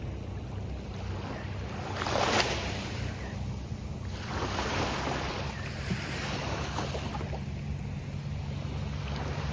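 Gulf of Mexico surf breaking and washing up the beach in swells every two to three seconds, the loudest about two seconds in, over a low steady rumble.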